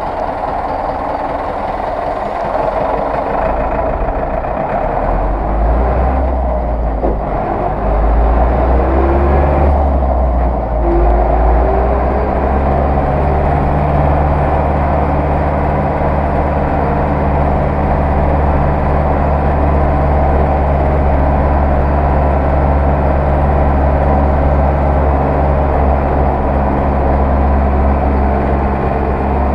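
Zetor 6911 tractor's four-cylinder diesel engine running, the deep engine note building over the first dozen seconds as it takes up more power, then holding a steady pull.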